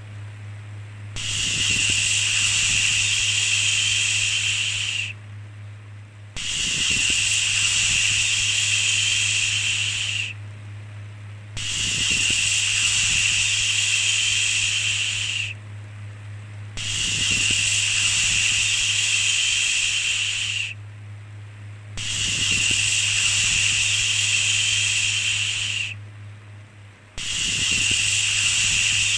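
A long "shhh" shushing sound repeated over and over, each about four seconds long with a pause of about a second between them. A steady low hum runs underneath.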